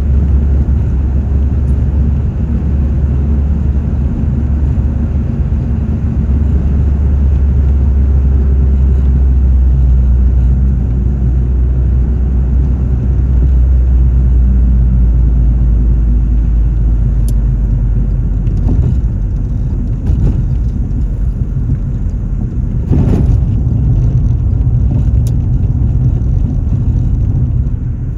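A car driving, with a steady low rumble of engine and road noise; the deepest part of the rumble eases about two-thirds of the way through, and there is a brief knock a few seconds later.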